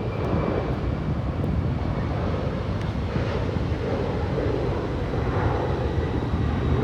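Steady low rumbling noise with a faint high whine running through it.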